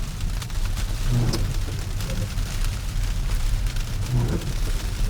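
Road and tyre noise heard inside a Tesla's cabin on snow-packed roads: a steady low rumble, with light scattered ticking on the car and a soft swell about a second in and again near the end.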